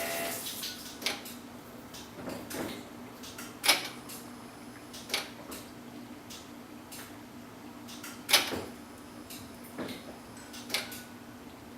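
Quiet workshop handling sounds: a few scattered light clicks and knocks, the loudest about three and a half and eight and a half seconds in, over a faint steady hum.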